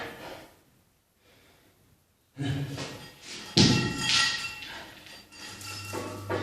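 Metal gym weights clanking: two sharp, ringing clangs about a second apart, after a moment of quiet. A steady low hum comes in near the end.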